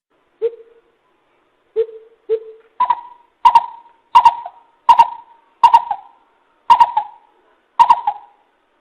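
Coucal hooting: three spaced deep hoots, then from about three seconds in a run of about seven higher hoots, each a little under a second apart.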